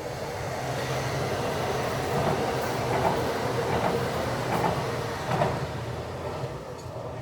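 A train running on the rails: a steady hum and rumble with irregular wheel clatter, swelling gradually toward the middle and easing off near the end.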